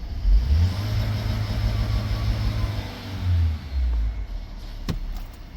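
2020 LDV G10's 2.0-litre turbocharged petrol engine being revved on test: it rises just after the start and is held for a few seconds, then blipped twice before dropping back to idle. A single sharp click near the end.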